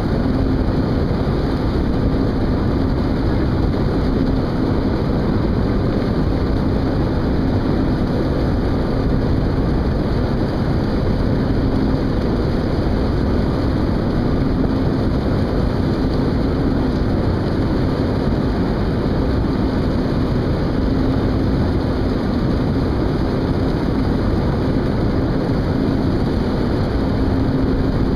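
Steady, loud engine drone from a vessel, with a constant low hum and no breaks.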